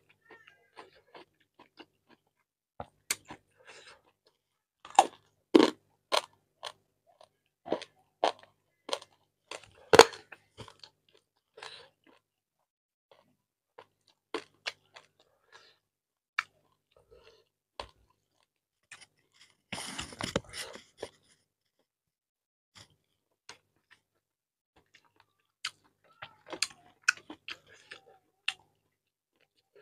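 A person eating rice and chicken curry by hand: wet chewing with many sharp crunches and mouth clicks, thickest from about five to ten seconds in. About twenty seconds in there is a second-long noisier burst.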